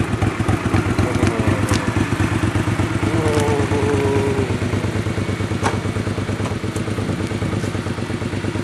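Motorcycle engine idling steadily with a rapid, even beat, freshly started on its push-button electric starter.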